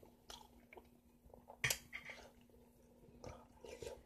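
Juicy yellow honeydew melon being chewed close to the microphone: soft wet mouth clicks, the sharpest about a second and a half in and a few more near the end.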